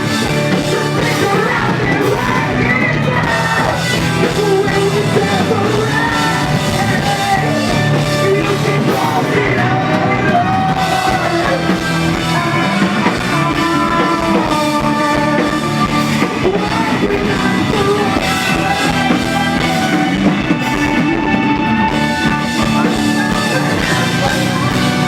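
Live rock band playing loudly, with sung and yelled vocals over distorted guitars, bass and drum kit.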